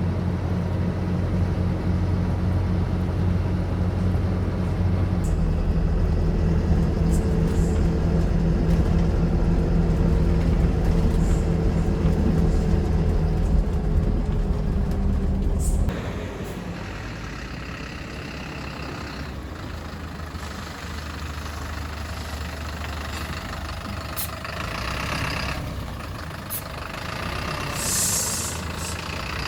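A motor vehicle's engine running steadily with a low rumble. About halfway through, the sound cuts abruptly to a quieter, hissier running noise.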